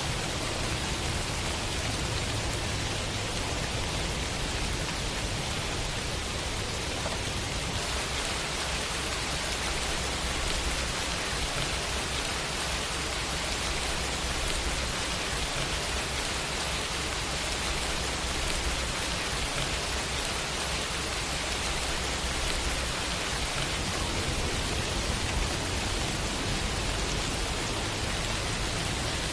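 Steady rain falling, an even hiss of drops on hard surfaces with a low rumble underneath.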